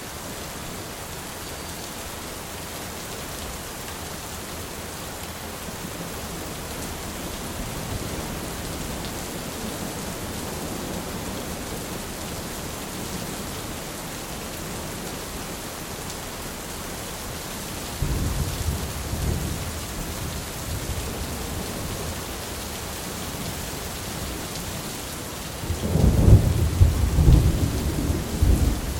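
Thunderstorm: steady heavy rain, with a sudden low thunderclap rumbling about two-thirds of the way through and a louder clap of thunder rumbling near the end.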